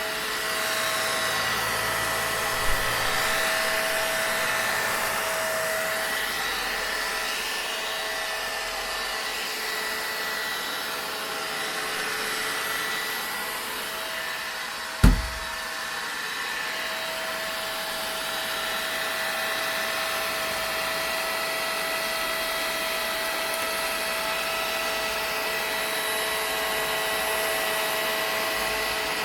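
Vacuum cleaner running steadily: a constant rushing noise with a steady motor whine. A single sharp thump comes about halfway through.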